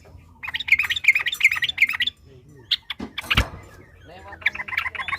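Yellow-vented bulbul (trucukan) singing in two runs of quick repeated notes, with a single loud knock between them.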